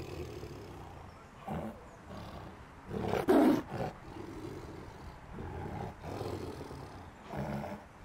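Tiger roaring in several separate calls, the loudest about three seconds in.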